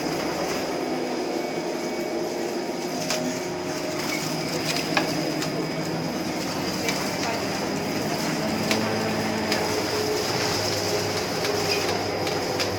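Bus running: a steady mechanical rumble with pitched drive tones that shift slowly, a constant high whine, and scattered clicks and rattles.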